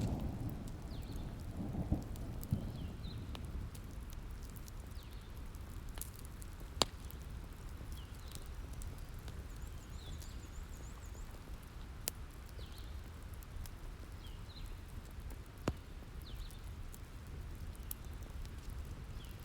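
Wood fire crackling, with scattered small snaps and three loud sharp pops, over a low steady rumble and rain hiss. A roll of thunder dies away in the first couple of seconds.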